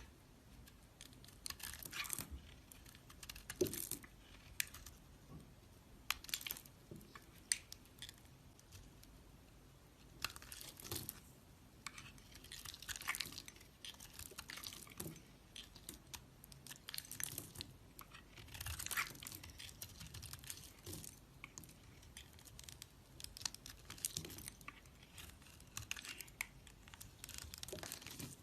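A knife carving and shaving a bar of soap, in repeated short crisp scraping and crunching strokes with the odd sharp click.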